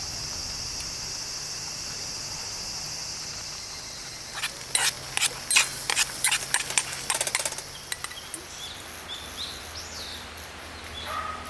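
Outdoor campground ambience: insects trill steadily at first, then a rapid series of sharp clicks or knocks runs for about three seconds, followed by short bird chirps.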